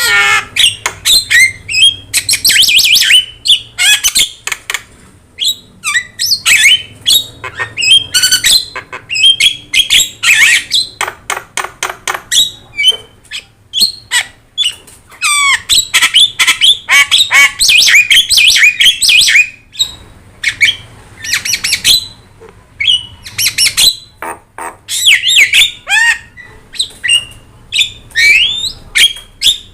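Javan myna singing vigorously: a rapid, varied chatter of sharp clicks and short whistled notes that bend up and down in pitch, broken by brief pauses.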